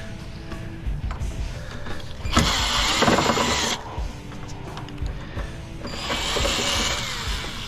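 Power drill running in two bursts of about a second and a half each, driving screws out of the PTAC unit's housing.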